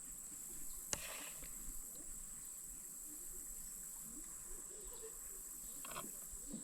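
Steady high insect chorus along the creek, with one sharp click about a second in.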